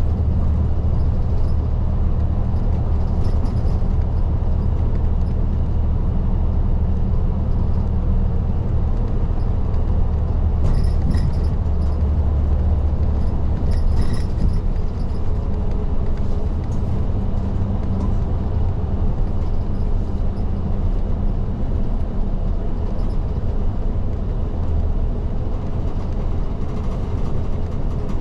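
Isuzu Erga city bus's diesel engine running steadily under way, heard from inside the cabin at the front, a low drone with road noise and a few faint rattles.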